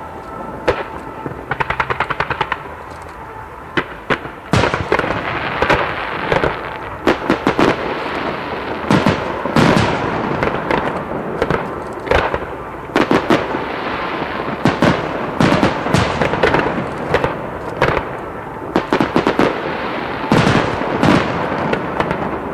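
Starmine fireworks: a quick run of small crackling bursts about a second and a half in, then from about four and a half seconds a dense barrage of overlapping shell bursts and booms.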